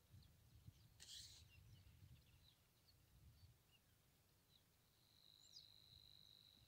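Near silence on a calm lake: faint high chirps of small birds over a low rumble, with a thin steady high note held for about a second and a half near the end.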